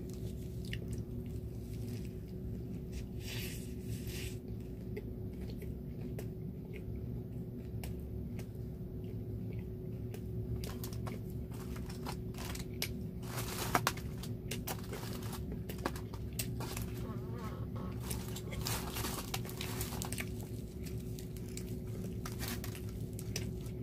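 A person chewing a lettuce-wrapped Thai sausage, with many short crisp crunches and clicks through the middle and later part, over a steady low hum.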